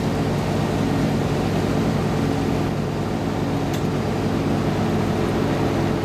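Motorboat engine running at a steady speed, a constant low hum under an even rushing noise.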